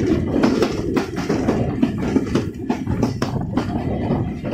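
Passenger train running at speed, heard from beside an open coach doorway: a steady rumble of wheels on the rails with irregular clicks and clanks.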